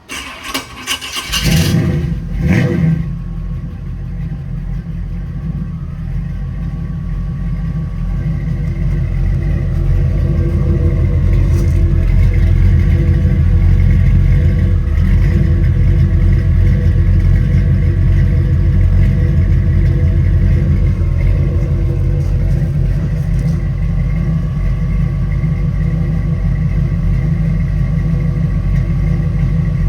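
Cold start of a 1990 Chevrolet Suburban 2500 4×4's engine: the starter cranks briefly, the engine catches about a second in and revs up a couple of times, then settles into a steady cold idle that grows louder over the next several seconds and holds.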